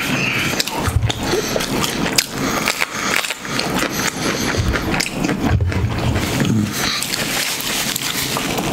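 Close-miked chewing: wet mouth smacks and crunching as a man bites into and chews a raw jalapeño pepper, with a couple of short low hums.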